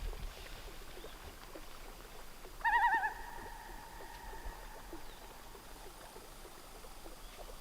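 Common loon calling once: a short quavering start that settles into a long, steady wailing note lasting about two seconds.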